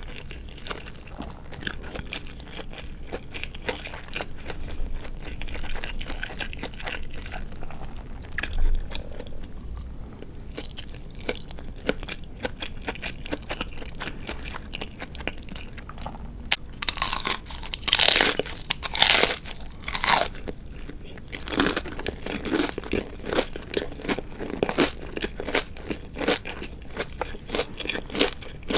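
Close-miked chewing of crisp deep-fried marinated chicken (tatsuta-age): soft mouth sounds at first, then a burst of loud crunching through the fried coating a little past halfway, followed by steady rhythmic crunchy chewing.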